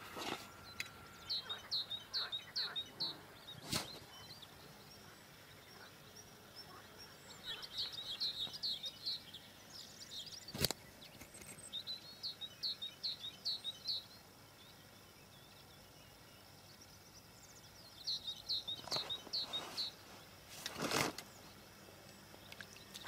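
A small songbird singing short phrases of quick, high notes, repeated every few seconds, over steady faint outdoor noise. A few sharp clicks are heard in between.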